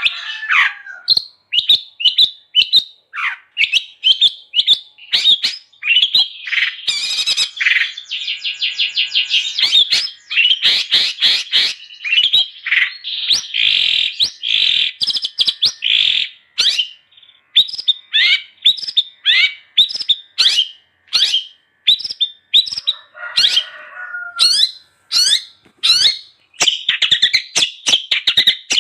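Long-tailed shrike (cendet) singing nonstop: fast strings of sharp chirps and quick rising notes, running into dense chattering passages, with a harsh rasping call about two-thirds through.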